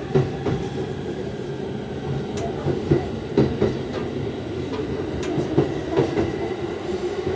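Inside an electric commuter train on the move: a steady running rumble with irregular sharp clicks as the wheels cross rail joints and points.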